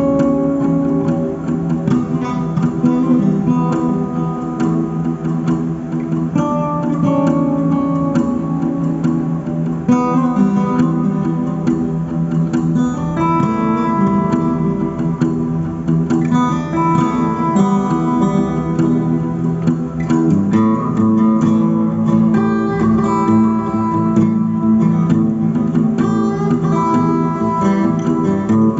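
Guitar improvising a Western-style melody, single plucked notes moving over ringing low notes.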